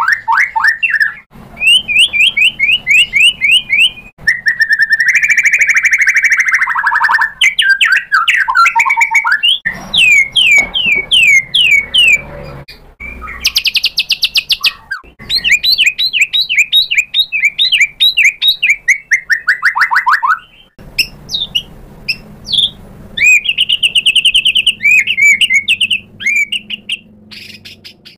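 White-rumped shama (murai batu) singing a loud, varied song: fast trills of quickly repeated notes and sweeping whistled phrases, broken by short pauses.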